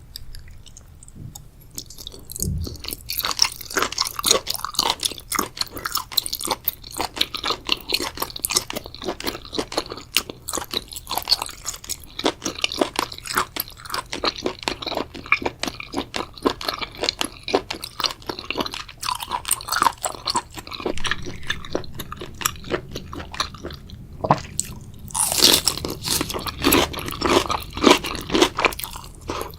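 Close-miked ASMR chewing of spicy seafood boil, with dense wet crunching and crackling bites. After a short lull about three-quarters of the way through, the crunching comes back louder.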